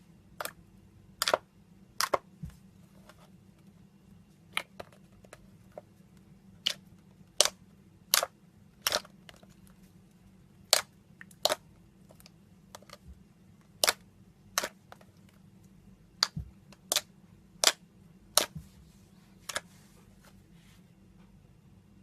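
Slime being squeezed and pressed, giving sharp little pops and clicks as trapped air bursts out, about one a second at uneven intervals, some in quick pairs.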